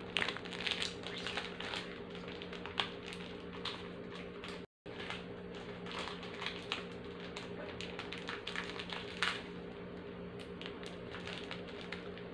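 Close-up chewing and crunching of crisp biscuits: a dense run of small, sharp crunches, over a steady low hum. The sound drops out for a moment a little under five seconds in.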